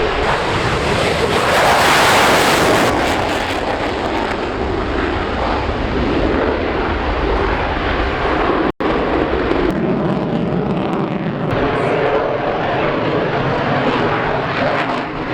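Fixed-wing aircraft engine noise, loud and sustained, swelling about two seconds in. Partway through there is a split-second dropout to silence.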